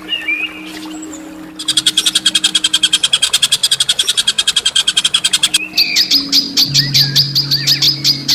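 Bird song tutor recording: a songbird gives a fast rattling run of harsh, sharp notes for about four seconds, then a slower run of sharp high notes mixed with a few whistled slurs. Low steady background music tones sit under it.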